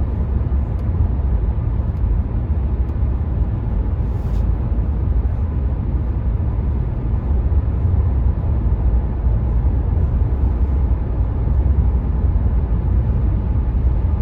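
Steady road and wind noise inside the cabin of a Renault Megane 4 cruising at motorway speed, a low even rumble from tyres and wind with the 1.5 dCi diesel engine beneath it.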